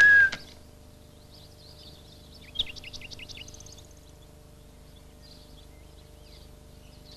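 A whistled tune stops about half a second in, followed by faint birdsong: small birds chirping, with a quick run of chirps about two and a half seconds in.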